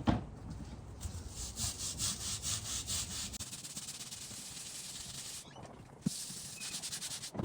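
A stiff brush scrubbing a grimy bench leg in quick back-and-forth strokes, a rasping scrape that repeats several times a second, easing into a steadier hiss after about three seconds.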